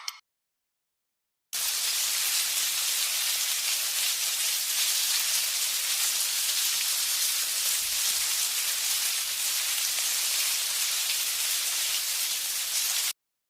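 Steady, even hiss like falling rain, starting abruptly after a second and a half of dead silence and cutting off just as abruptly near the end.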